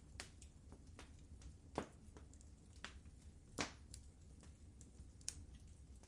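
Fire in a fireplace crackling: irregular soft pops and snaps, the sharpest a little under two seconds in and again just past three and a half seconds in, over a faint steady low background.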